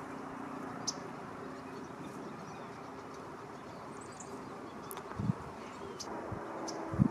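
A few short, high bird chirps scattered over a steady low background rumble, with a low bump about five seconds in and another near the end.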